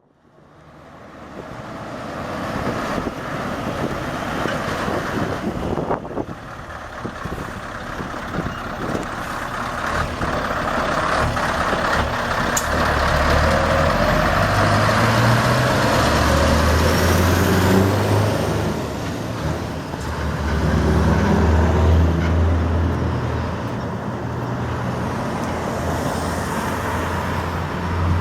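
Scania R580's V8 diesel engine running under load, growing louder over the first few seconds, with a deep engine note that shifts in pitch in steps through the middle and later part.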